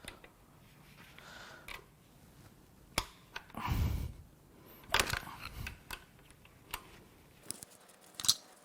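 Hand tools and metal parts clicking and scraping on a BMW S52 engine as the oil pump gear is worked off. There are a few sharp clicks, with two short, rougher bursts of noise near the middle.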